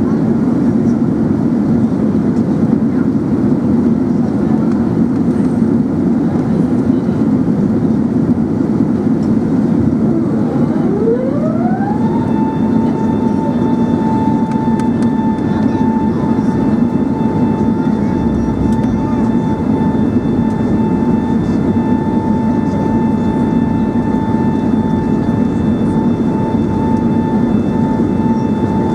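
Airbus A380 cabin noise in flight: a steady rumble of engines and airflow. About ten seconds in, a whine rises in pitch over a second or two and then holds one steady tone.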